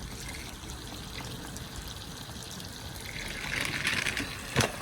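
Water running steadily down a backyard water slide. About three seconds in comes a swell of splashing, and near the end a single sharp knock.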